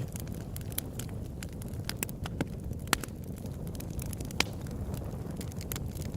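Open-air wood campfire crackling with frequent small irregular pops over a steady low rumble. Two sharper, louder pops come about three seconds and about four and a half seconds in.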